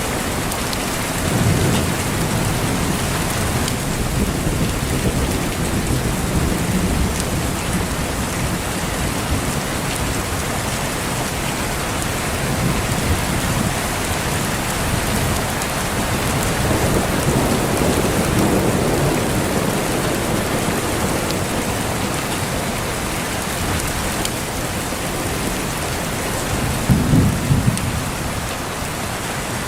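Steady heavy rain with thunder rolling in the distance: low rumbles about a second in, again around the middle, and the loudest one near the end.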